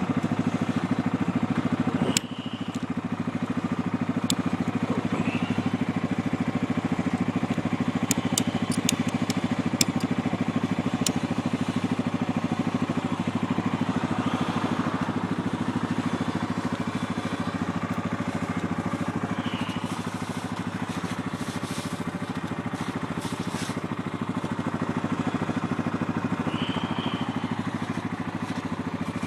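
ATV engine running steadily at low speed. A sharp click about two seconds in, where the engine note drops a little, and a handful of sharp ticks about eight to eleven seconds in.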